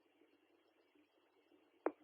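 Near silence on a radio scanner feed: faint, even channel hiss, with one short click near the end as a transmission keys up.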